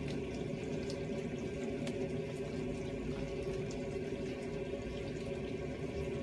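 Steady running water at a garden drain, with faint scattered ticks, as waste water from a running shower fills the drain and backs up toward overflowing.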